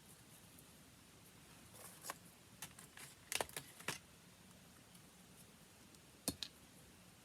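A few light clicks and taps from handling watercolour paints and supplies: a short run of them about two to four seconds in, and one more near the end, over a quiet room.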